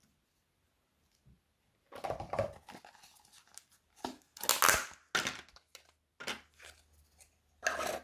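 Crunchy slime mixed with plastic bag pieces and foam brick being squeezed and pulled by hand. It crackles and crinkles in irregular bursts, the loudest about halfway through.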